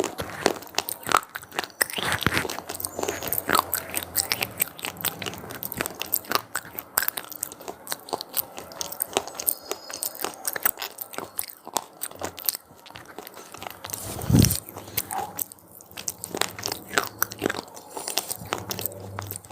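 Close-up chewing and biting of crunchy cheese-pizza flavoured corn snacks: a dense run of crisp crunches, with one louder, deeper thump about three quarters of the way through.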